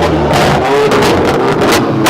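A car engine revving repeatedly, loud, its pitch rising and falling, with sharp crackles.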